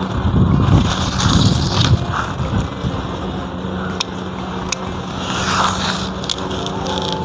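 Gusty wind buffeting the microphone in heavy low rumbles, strongest in the first couple of seconds, over a steady low hum. A few sharp clicks come in the second half.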